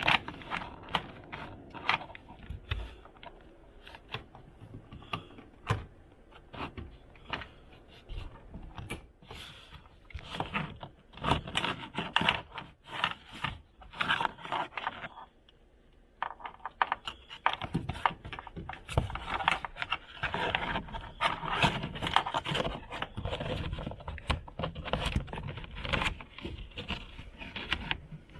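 Hands handling a car's tail light wiring and plastic connectors: irregular scraping, rubbing and clicking, with a brief pause about halfway through.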